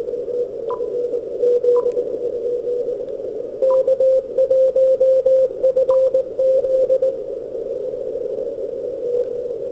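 A Morse code (CW) signal from a distant station, received on a 160-meter amateur radio receiver: a single keyed tone over a steady hiss of band noise. The tone comes through stronger from about four to seven seconds in.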